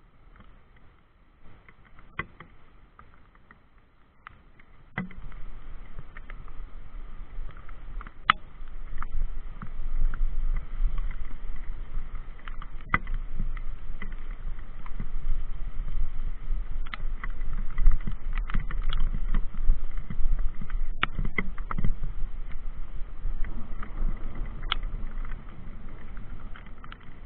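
Mountain bike being ridden on a wet trail: a low rumble of wind and riding noise on the microphone that grows louder about five seconds in, with scattered clicks and rattles.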